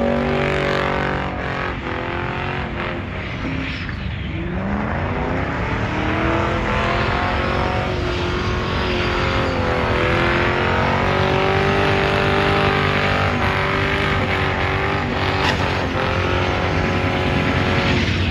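Car engine revving hard during a burnout with the tyres spinning. The revs drop about four seconds in, then climb and hold high, with a few brief dips.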